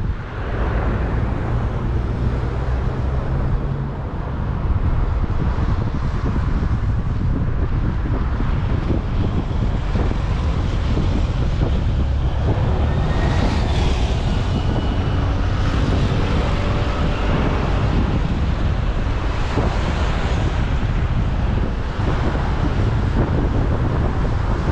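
City traffic passing on a busy street, a steady rumble of vehicles with wind buffeting the microphone.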